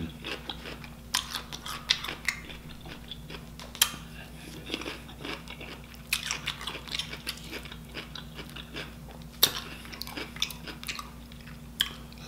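Close-up eating sounds: chewing and wet mouth noises, broken by sharp crunches of a pickle spear, while sauce-soaked rotisserie chicken is pulled apart by hand. The loudest crunches come about four seconds in and again near ten seconds.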